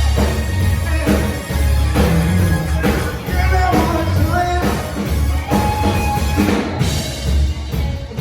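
Live rock band playing, with a heavy bass, a drum kit keeping a steady beat and a voice singing over it.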